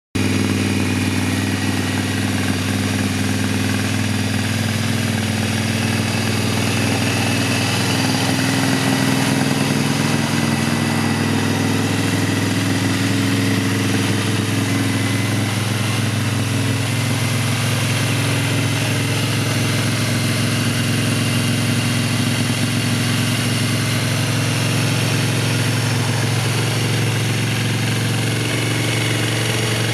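Triumph Bonneville Scrambler's air-cooled 865 cc parallel-twin engine idling steadily.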